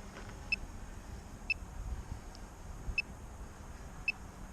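Wind rumbling on the microphone, with four short, high electronic beeps at uneven intervals of about a second.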